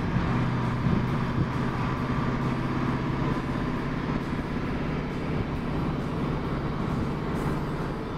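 Kellison J5 kit car's engine droning at a steady cruise, its pitch holding level, with tyre and road noise, heard from inside the car.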